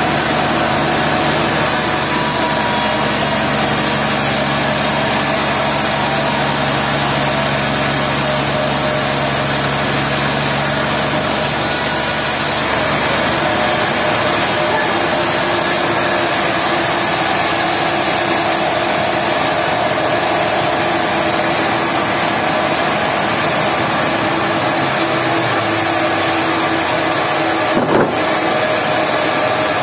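Sawmill machinery running steadily: an engine drone under dense mechanical noise. Late on, the engine's pitch drops a little, and a single sharp click comes near the end.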